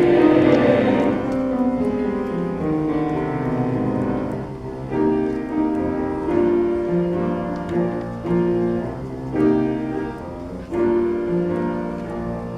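Piano accompaniment of a choral piece playing a solo interlude: a slow melody over chords, note by note. In the first second the choir's last held chord dies away.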